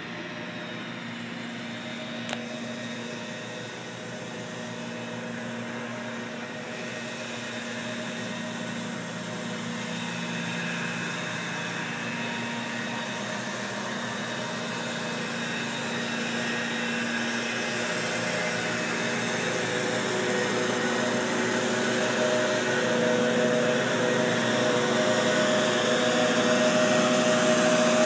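A motor-driven machine running at a steady speed, a constant hum with a noisy rush over it, growing gradually louder.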